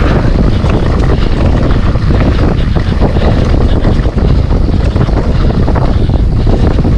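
Wind buffeting the microphone of a camera carried on a mountain bike riding down a trail, a loud, steady rushing noise.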